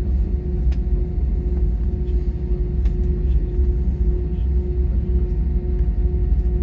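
Inside an airliner's cabin during the takeoff run: the jet engines' loud, steady low rumble with a constant hum over it, and a few sharp clicks.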